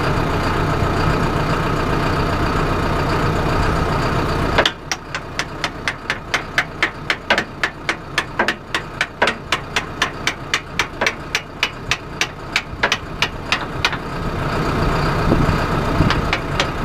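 Tractor engine idling until about four and a half seconds in, when its sound cuts out abruptly. A quick, even series of sharp metallic clicks follows, about four a second, for some nine seconds, before the engine sound builds back up near the end.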